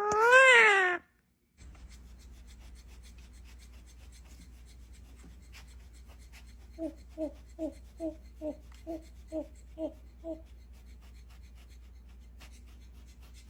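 A bird gives one loud, arching call lasting about a second at the start. Later, over a steady low hum, a bird gives a run of about nine short, evenly spaced two-note calls, roughly two to three a second.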